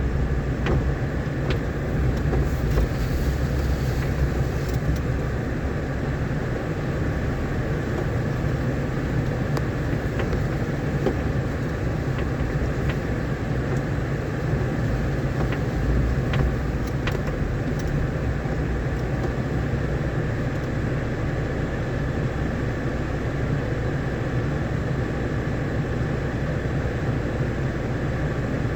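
Vehicle driving steadily over a rough dirt road: continuous low engine and road rumble, with a few brief clicks and knocks from rattles over the bumps.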